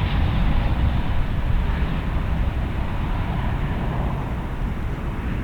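Jet airliner engines rumbling, slowly fading.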